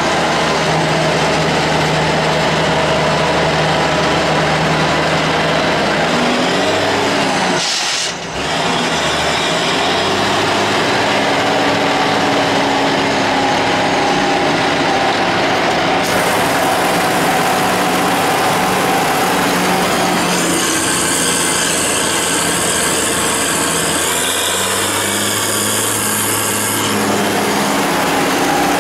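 Ursus 1614 tractor's diesel engine running steadily, its speed shifting a few times, with a brief drop in sound about eight seconds in.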